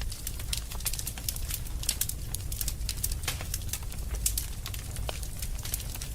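Wood fire crackling and popping in a fireplace: many irregular sharp snaps over a steady low rumble of the flames.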